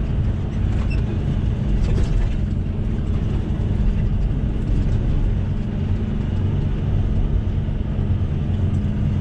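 Semi truck's diesel engine droning steadily with road noise, heard from inside the cab while driving.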